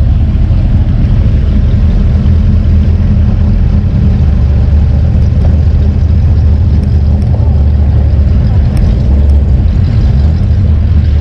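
A vehicle engine running steadily and loudly, with a low, even drone and no change in speed.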